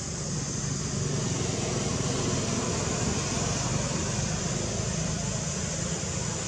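Steady outdoor background noise: an even low rumble with a high hiss, with no distinct calls.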